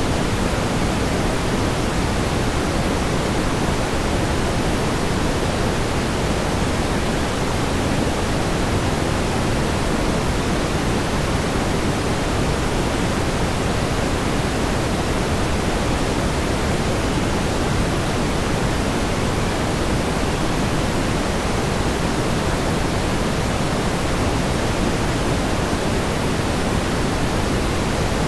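Steady pink noise: an even, unchanging hiss, fuller and deeper in the low range than in the highs.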